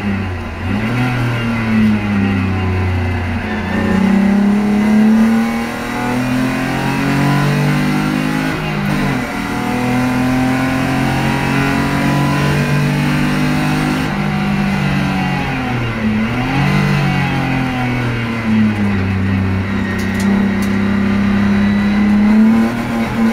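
BMW M50 inline-six in an E30 325i, heard from inside the cabin while it is driven hard on track. The revs climb and fall several times through the gears, with quick drops and blips about nine and sixteen seconds in.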